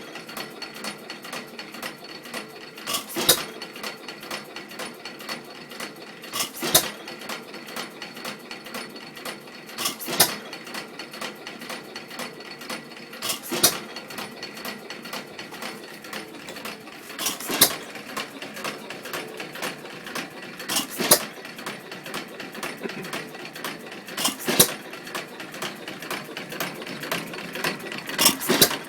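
1912 Stover Model YA (Pilter-badged) single-cylinder vertical open-crank hit-and-miss engine running unloaded: it fires with a sharp bang about every three and a half seconds and coasts between firings with a steady mechanical clatter. The long coasts between firings are the governor holding the engine on its miss cycles until speed drops.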